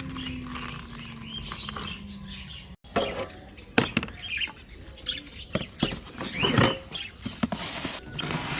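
Small cage birds chirping, mixed with light pattering, scratching and clicking as a seed dish and cage are handled.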